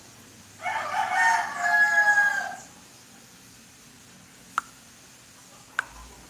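A rooster crowing once, a call of about two seconds, followed later by two sharp clicks about a second apart.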